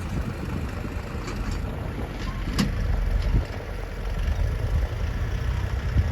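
DF-304 tractor's diesel engine running with a steady low rumble, pulling a trailer, with a sharp knock about two and a half seconds in.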